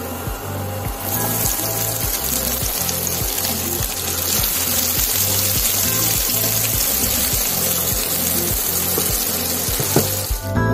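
Chopped onions sizzling hard in hot oil with cumin seeds and garlic, the sizzle jumping up about a second in as the onions hit the oil and cutting off sharply at the end. Background music with a steady beat plays underneath.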